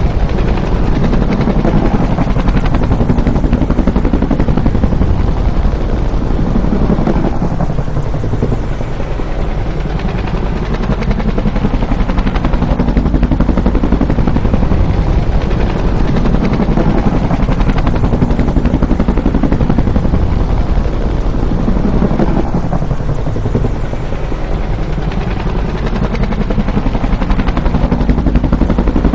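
Bell UH-1 Huey helicopter flying past, its two-blade main rotor beating fast over the turbine. The sound swells and fades with the pitch bending down twice, as passes repeat.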